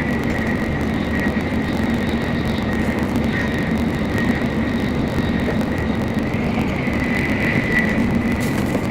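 Steady running noise of a Shinkansen bullet train at speed: a continuous rumble with a low hum and a thin high whine that swells a little near the end.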